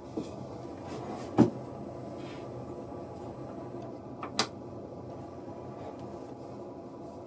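Two sharp knocks, one about a second and a half in and a brighter double click about four seconds in, over a steady background hum.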